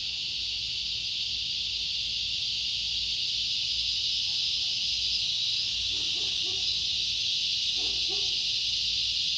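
Chorus of cicadas buzzing: a continuous high-pitched drone that grows slightly louder.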